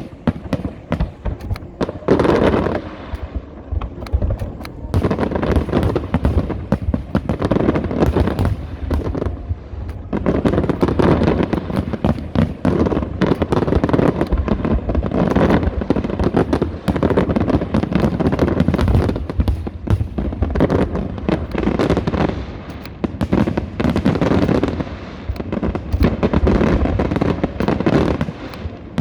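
Fireworks display: a dense, continuous barrage of aerial shell bursts and crackling, with brief lulls a few seconds in and about ten seconds in.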